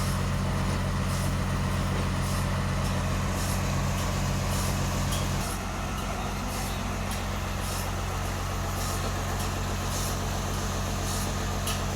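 Sawmill machinery running with a steady low engine drone, which drops in level about five and a half seconds in. A faint, evenly repeating ticking sits above the drone.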